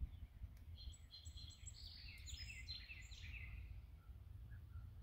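A songbird sings a rapid run of short, high chirping notes, starting about a second in and lasting about two seconds, over a steady low background rumble.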